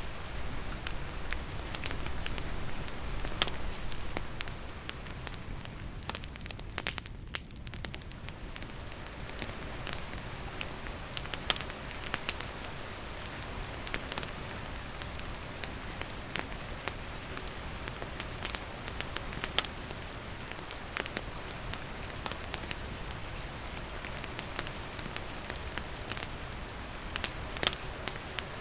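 Steady rain falling on surfaces together with a wood campfire crackling, with sharp pops scattered throughout. The rain hiss thins briefly about seven seconds in.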